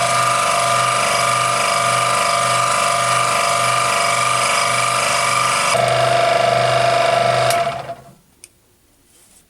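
Scroll saw running steadily with a loud mechanical hum, its tone shifting slightly about six seconds in; near the end it is switched off and winds down to a stop.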